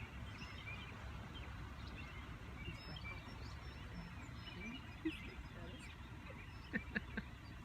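Small birds chirping off and on over a low steady outdoor rumble, with a few sharp clicks near the end.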